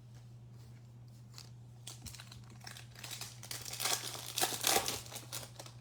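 Foil wrapper of a trading card pack being torn open and crinkled in the hands. The crackling builds from about two seconds in and is loudest shortly before the end.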